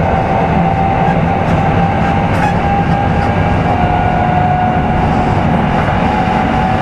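Kintetsu 5200-series electric train running at steady speed, heard from inside motor car Mo 5257: an even rumble with a steady whine over it and a few faint clicks.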